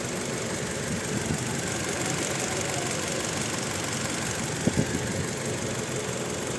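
Toyota Innova's four-cylinder petrol engine idling with a misfire, with two brief knocks just before five seconds in. The misfire is traced to a faulty ignition coil on cylinder two.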